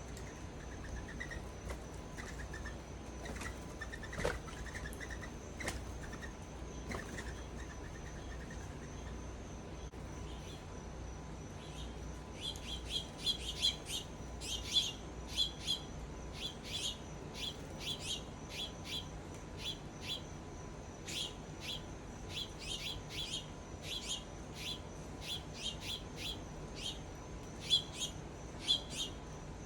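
Small birds chirping: a few soft notes at first, then from about twelve seconds in a rapid run of short, sharp chirps, several a second. A steady high-pitched tone runs underneath.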